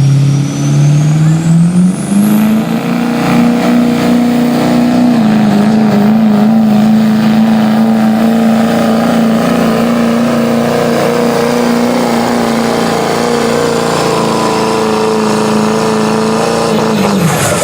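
Diesel pickup truck pulling a sled at full throttle: the engine climbs in steps over the first two seconds with a rising turbo whistle, then holds steady at high revs under load for about fifteen seconds, and its note falls away near the end as the pull finishes.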